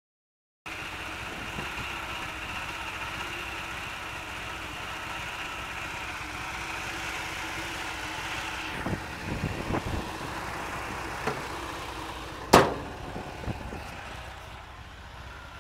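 ZAZ-968M Zaporozhets' air-cooled V4 engine idling steadily with a rattle, a sign that something in the engine is amiss. A few knocks come around nine to ten seconds in, and one sharp loud knock about twelve and a half seconds in.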